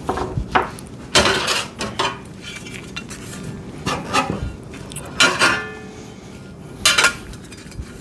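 Small steel bolts, nuts and washers clinking and rattling as they are picked out and handled: a run of irregular sharp metallic clinks, a few of them ringing briefly.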